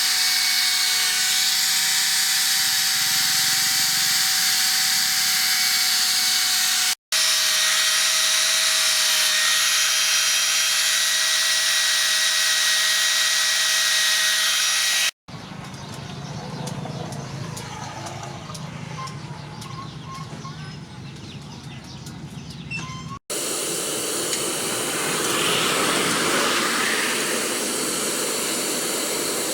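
A power tool runs with a high, steady whine. The sound breaks off in hard cuts between clips. A quieter stretch in the middle holds light clicks and taps, and near the end there is a rushing hiss.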